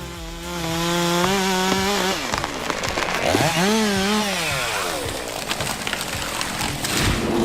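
Stihl two-stroke chainsaw cutting into a large tree, revved twice: each time the pitch climbs, holds, then falls away.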